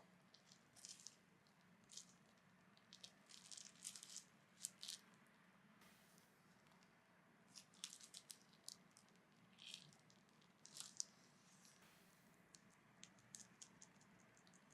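Near silence with faint handling noises: scattered soft clicks and squishes coming at irregular moments over a quiet room hum.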